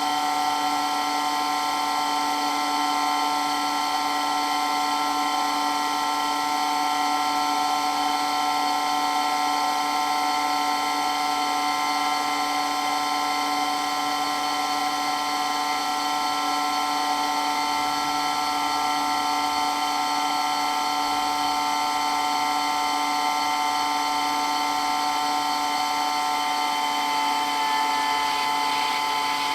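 Water pump running with a loud, steady whine made of several held tones.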